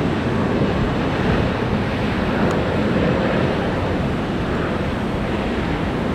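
Jet airliner engine noise, a steady broad roar that eases slightly toward the end, with wind buffeting the microphone.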